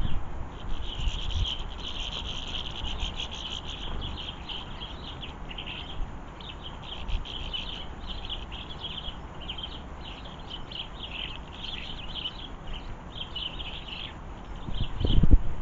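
Small garden birds twittering in quick runs of short high chirps, over a low rumble of storm wind buffeting the microphone. The wind gusts up strongly near the end.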